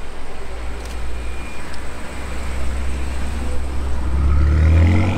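A car engine with a low, steady rumble that rises in pitch and grows louder about four seconds in as the car accelerates.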